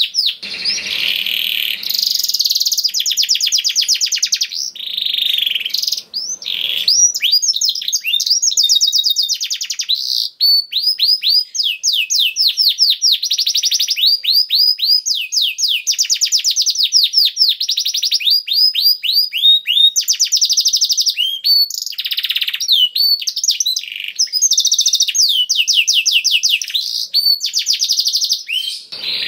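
Domestic canary singing a long, continuous song of rapid trills, each made of fast repeated high notes that sweep downward, one trill running straight into the next with barely a pause.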